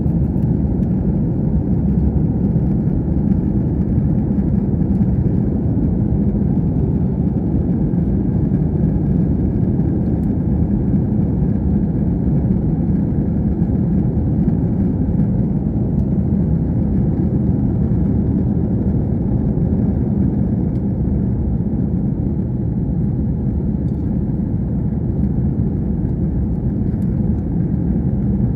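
Airbus A321 cabin noise from a rear window seat: a loud, steady low rumble of the jet engines and the airflow, with no rise or fall in pitch.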